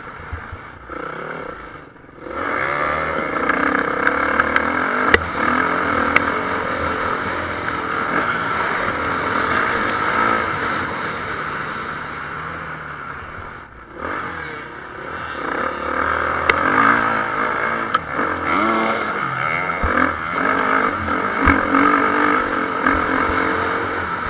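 Motocross motorcycles racing, engines revving up and falling off as they pass, with brief lulls about two seconds in and again near the middle.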